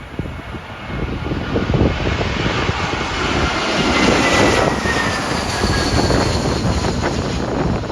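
Jet airliner passing low overhead on its landing approach. Its engine whine falls in pitch as it goes by, and wind buffets the microphone throughout.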